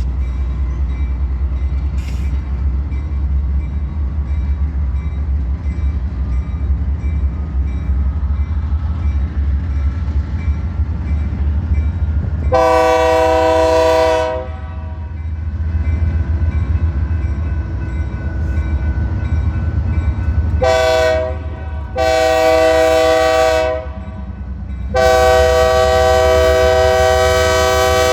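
BNSF GE Dash 9 diesel locomotive rumbling steadily as it pulls slowly away, and sounding its Nathan K3LA multi-chime air horn: one long blast about midway, then a short blast and two long blasts near the end.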